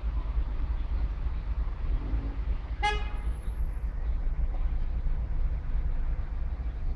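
A single short car horn toot about three seconds in, over a steady low outdoor rumble.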